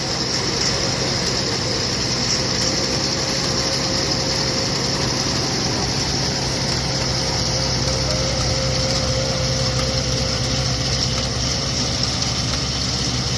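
Tractor engine running steadily while pulling a transplanter, with a faint high steady whine over it.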